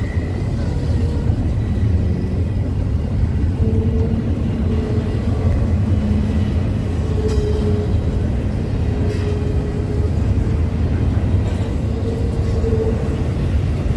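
A train rolling past: a steady, loud low rumble with short tones that come and go every second or so.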